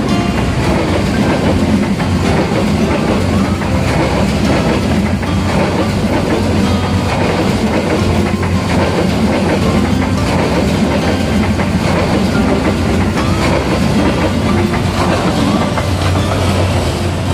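Passenger train carriages rolling past at close range, wheels clicking steadily over the rail joints with a continuous rumble. The last carriage goes by near the end.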